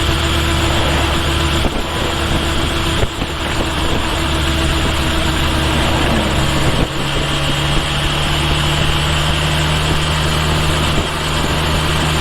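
Kawasaki Ninja H2 SX's supercharged inline-four engine running steadily, picked up close to the rear of the bike. The engine pitch drops about six seconds in, with a few short dips in level along the way.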